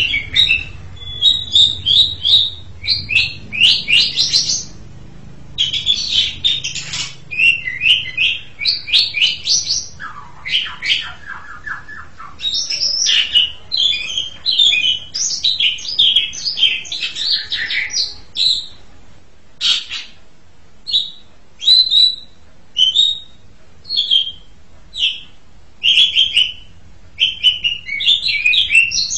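Asian pied starling (jalak suren) singing: a long, varied run of quick chirps and whistles, with a short stretch of lower, evenly repeated notes about ten seconds in. Later the song breaks into more spaced-out calls.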